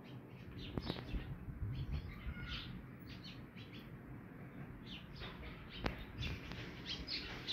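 Small birds chirping over and over in quick short notes, with two sharp clicks from the dough-rimmed steel plate being handled.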